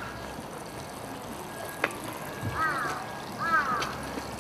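A bird calling twice, short pitched calls that rise and then fall, about a second apart in the second half, with a single sharp click shortly before.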